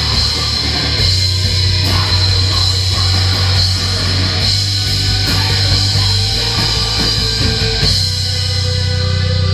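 Live heavy rock band playing loud, with distorted guitars and bass over drums. About eight seconds in, the drums drop out and the guitars ring on.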